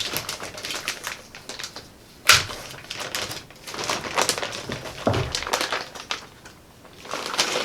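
A plastic anti-static bag and packaging being handled, crinkling and rustling with irregular crackles. The loudest is a sharp crack about two seconds in.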